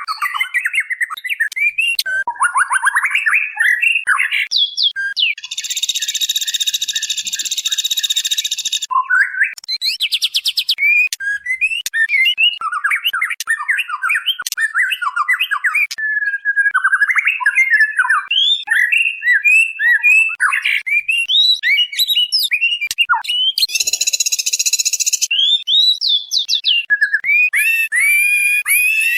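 Female white-rumped shama calling without a break: quick chirps and short whistled notes sliding up and down. Harsh, rasping calls cut in twice, a long one of about three seconds starting about six seconds in and a shorter one near the end.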